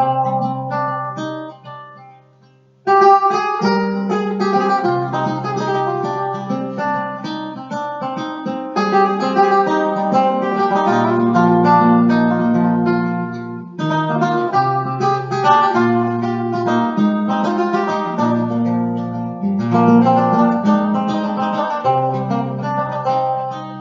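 Acoustic guitar playing a picked instrumental introduction over held bass notes. It dies away briefly about two seconds in, then starts again and plays on steadily.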